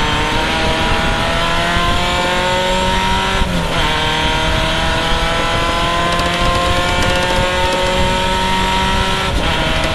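Triumph vintage race car's engine accelerating, heard from the open cockpit. Its pitch climbs steadily through each gear, then drops at an upshift about three and a half seconds in and again near the end.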